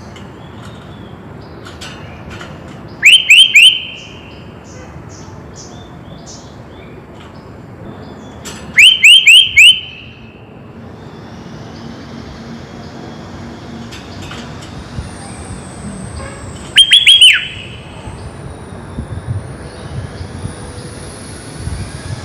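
Sooty-headed bulbul (kutilang) singing: three short, loud phrases of about four quick bubbling notes each, several seconds apart, over a steady background hiss.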